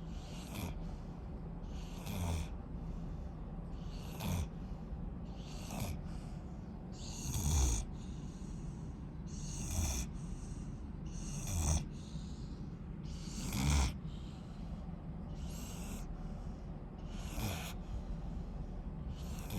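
Rottweiler puppy snoring, about one snore every two seconds, each a low rumble with a breathy hiss. A few snores are louder than the rest.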